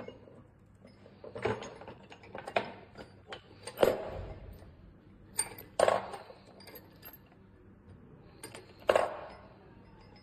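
Small metal parts such as screws clinking and dropping against metal, a handful of separate irregular clinks, the loudest about four, six and nine seconds in.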